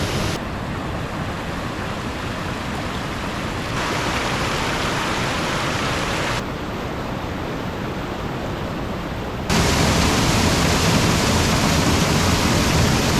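Waterfall: a steady, loud rush of falling water, which jumps abruptly in level and tone several times and is loudest over the last few seconds.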